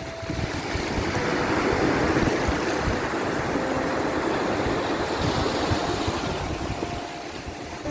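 Sea waves washing ashore, a steady rushing noise that swells about a second in and eases off near the end.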